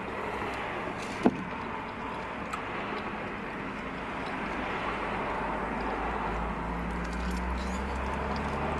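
Steady low rumble and hiss of a car's cabin with the engine running, growing a little louder about halfway through, with one sharp click about a second in.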